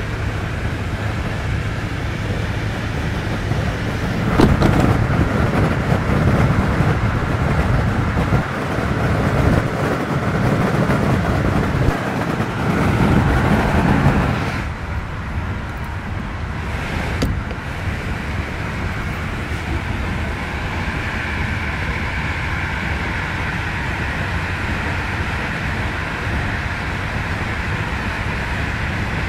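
Steady running noise of a PKP Intercity passenger train heard from inside the coach: wheels on the rails and the coach rumbling along at speed. It grows louder about four seconds in and falls back sharply about halfway through, with a couple of sharp clicks.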